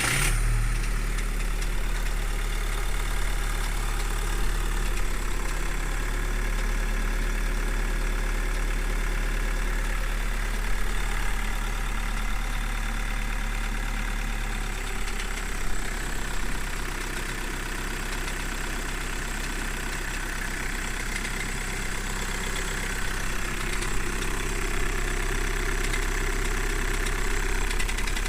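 Volkswagen Golf 1.6 TDI four-cylinder diesel idling just after a cold start, with a rattling, knocking noise. The idle settles a little about halfway through.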